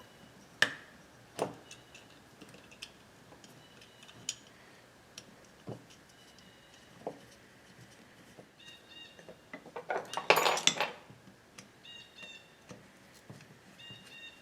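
Metal clicks and clinks of small screws and a tool being handled while an ignition coil is fitted to a chainsaw engine, with a short run of rapid clicking about ten seconds in. Faint bird chirps sound now and then.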